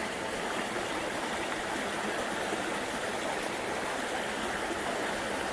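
Creek water running steadily over rocks, a constant rushing with no breaks.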